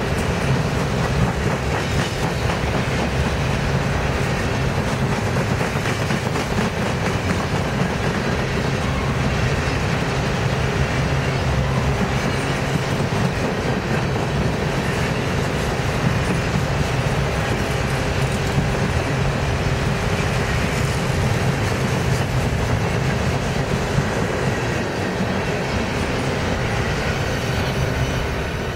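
Train cars rolling past on the track: a loud, steady rumble of steel wheels on rail that eases slightly near the end.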